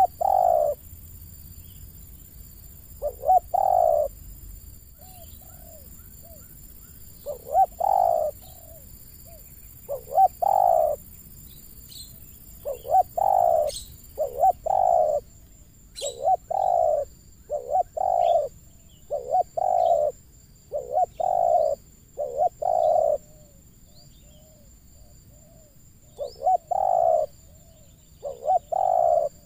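Spotted doves (terkukur) cooing: short multi-note coo phrases, often one after another in runs, with pauses of a few seconds between runs.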